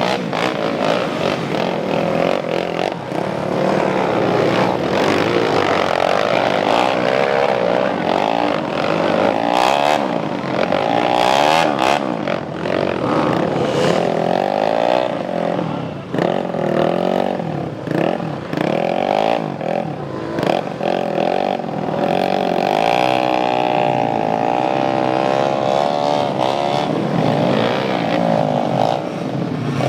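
Motocross bikes revving hard on a steep uphill climb, engine pitch rising and falling again and again as the riders work the throttle, with several bikes overlapping at times.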